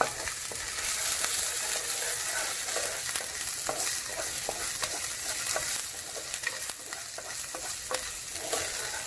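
Finely chopped ginger and garlic sizzling in a little oil in a nonstick pan, stirred with a slotted wooden spatula. A steady sizzle runs under frequent short scrapes and taps of the spatula against the pan.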